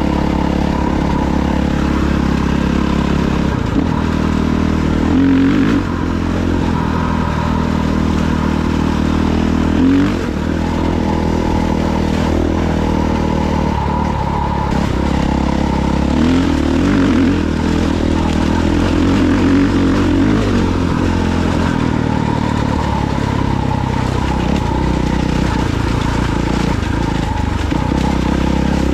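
Dirt bike engine running steadily under way, the revs climbing briefly a few times, with some rattle and clatter.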